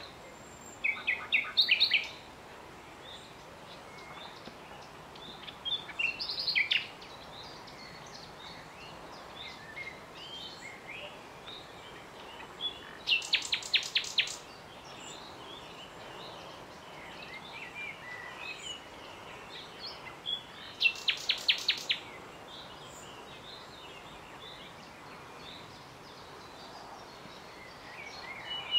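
Nightingale singing: four loud phrases of rapid repeated notes, spaced several seconds apart, with faint chirps of other birds and a steady background hiss between them.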